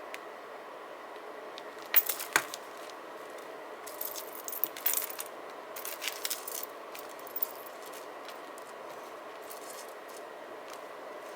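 Sharp, light clicks and clinks of desk journaling supplies being handled: two loud clicks about two seconds in, then a scattered run of smaller clicks for about three seconds, over a steady hiss.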